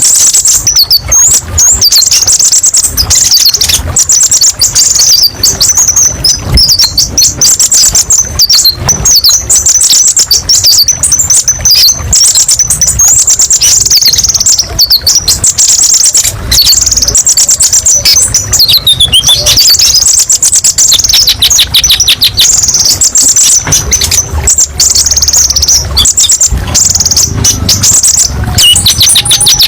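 Kolibri ninja (konin) songbird, a small sunbird, singing without a break: rapid high-pitched twittering and chattering phrases, with a fast trill that drops in pitch about two-thirds of the way through.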